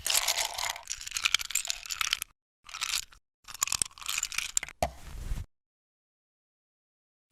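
Crunching sound effect in three bursts of dense crackling and clicking, the first about two seconds long, the last ending about two thirds of the way through, with dead silence between and after.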